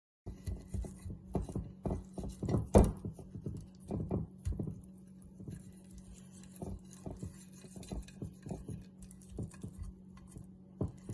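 Irregular light knocks and taps of kitchen handling while raw boiled potatoes are seasoned and turned, the loudest knock about three seconds in, over a steady low hum.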